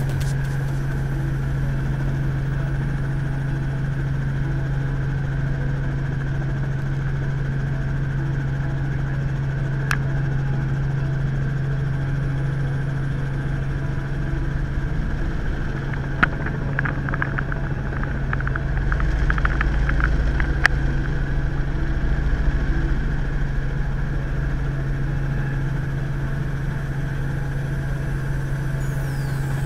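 Robinson R44 helicopter in flight: engine and rotors making a steady, unchanging drone with a constant higher whine over it, and a run of light ticks about halfway through.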